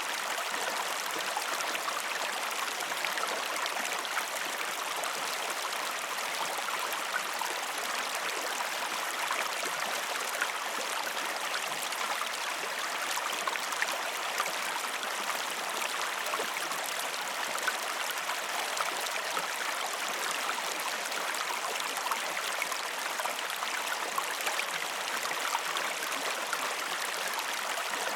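Waterfall: water falling and splashing in a steady, even rush with no change in level.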